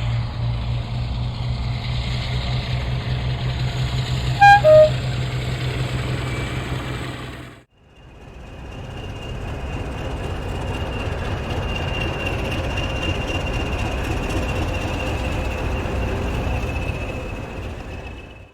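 Railway locomotive running with a steady low throb. About four and a half seconds in it gives a short two-tone horn toot, high note then low. After a sudden cut, a train rumbles along with a steady high whine over the noise.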